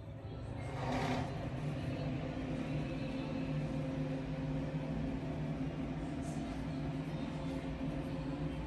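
A motor-driven machine starting up and then running with a steady hum.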